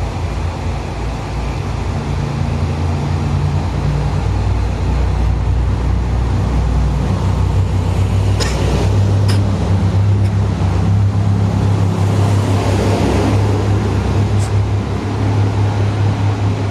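Diesel railcar engine running steadily with a deep hum, its pitch shifting partway through, with a few sharp clicks near the middle and once more near the end.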